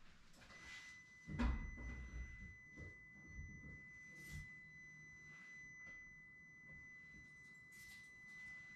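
A faint, steady high-pitched electronic tone comes on about half a second in and holds without wavering. A soft thump comes just over a second in.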